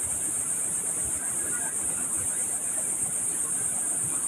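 Steady high-pitched chorus of insects, unbroken and even in level.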